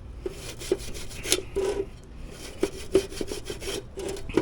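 Brush scrubbing a metal part in quick, uneven back-and-forth strokes to clean it.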